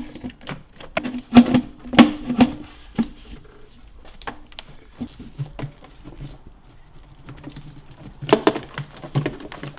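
Irregular plastic clicks and knocks of hands working electrical connectors and relays in a car's engine bay, with the sharpest knocks a second or two in and again near the end.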